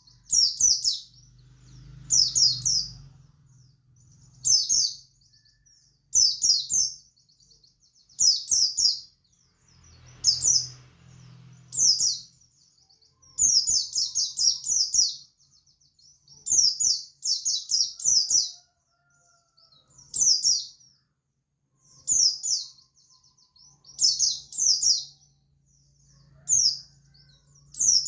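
Buxtoni white-eye (pleci) singing: short bursts of rapid, high twittering notes, repeated about every two seconds. This is the wild-style 'ngalas' song that keepers play to get a quiet caged white-eye singing.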